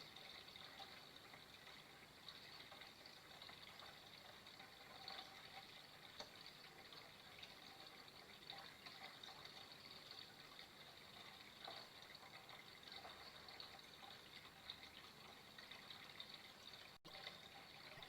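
Faint, steady flowing water, trickling and splashing continuously, with a momentary dropout about a second before the end.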